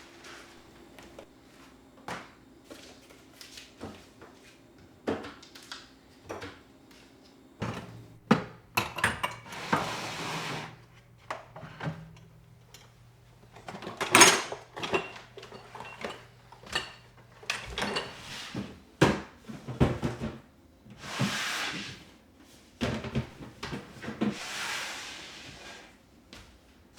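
Kitchen handling sounds: a run of knocks, clicks and clatters as items are moved and set down, with a few longer brushing or sliding sounds, each about a second long. A low steady hum runs through the middle of the stretch.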